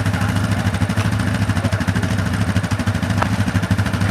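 ATV engine running steadily, with a fast, even pulsing.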